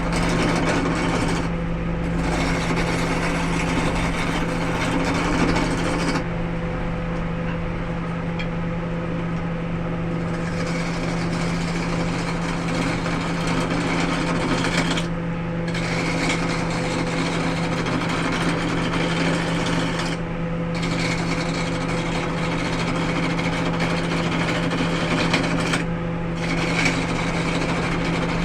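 A wood lathe runs with a steady motor hum while a tool works the spinning wood. The rough working noise stops briefly a few times, longest for about four seconds a quarter of the way in, as the tool is lifted off, while the motor keeps running.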